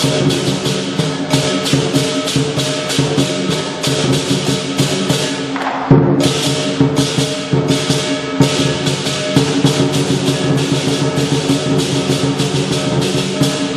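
Lion dance percussion: a big drum beaten with cymbals clashing about four times a second over a ringing gong, with a short break and a hard accent about six seconds in.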